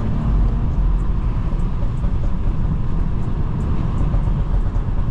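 BMW G30 540i driving in slow traffic on a wet road, heard from inside the cabin: a steady low rumble of engine and tyres.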